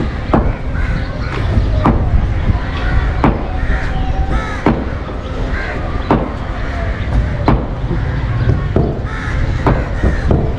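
Birds calling in short cawing calls, over sharp knocks about every second and a half and a steady low rumble.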